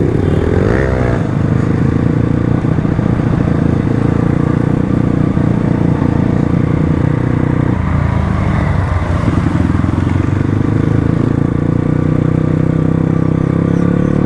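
Crossfire RM250 dirt bike's engine running while riding, with the revs rising about a second in and a brief dip in the engine note around eight seconds in.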